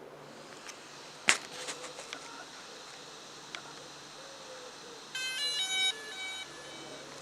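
A sharp click, followed by a few light ticks. Then, near the end, a short run of electronic beeps that step up and down through several pitches like a little tune, about a second and a half long.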